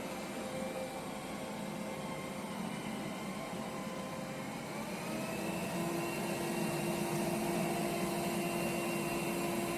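iRobot Roomba 105 robot vacuum running with a steady whirr. About halfway through, a motor whine rises in pitch and settles into a steady hum, a little louder than before.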